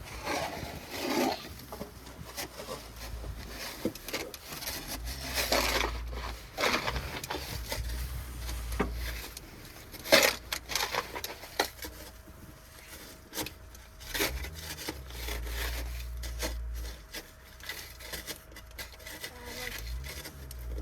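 Snow shovel scraping and digging into snow in irregular strokes, with one sharp knock about ten seconds in. A low rumble comes and goes underneath.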